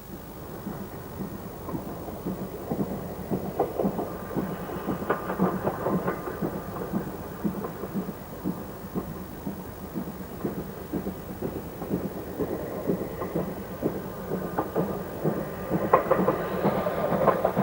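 Great Western Castle-class steam locomotive Nunney Castle and its train running past: a steady rumble with dense clatter of wheels on the rails, growing a little louder near the end.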